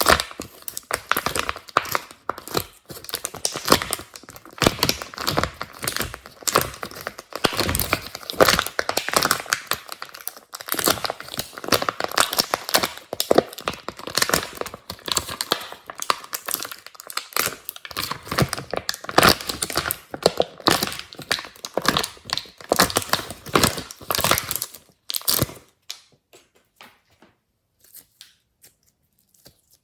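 Glossy slime being squeezed and stretched by hand: dense crackling and popping clicks, which thin out to a few faint clicks near the end.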